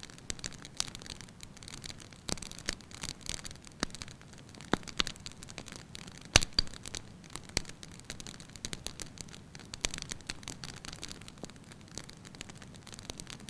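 Fire burning in a fireplace, crackling steadily with a spatter of small irregular pops, and one sharp, louder pop about six seconds in.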